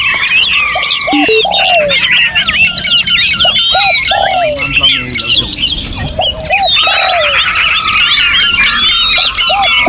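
Many songbirds singing at once in an aviary: a dense, overlapping chorus of whistles, trills and gliding notes, with a lower arching call repeated about once every second or so.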